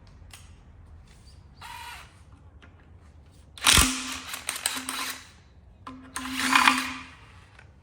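Handheld power tool, such as an impact wrench or drill, run in two bursts of about a second each with short stops between, working on a fastener that is stuck fast.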